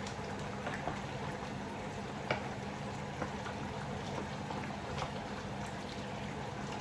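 A pot of broth and rice boiling, a steady bubbling with scattered small pops and a low hum underneath.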